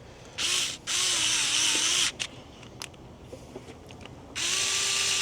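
Cordless electric screwdriver motor running in three bursts: a brief blip, then two runs of about a second each. Its whine wavers in pitch during the second run and holds steady in the last.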